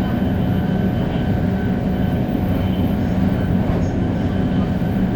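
500 series Shinkansen running steadily at speed, heard from inside the car: a dense, even rumble of wheels and running gear with a few faint steady high tones above it.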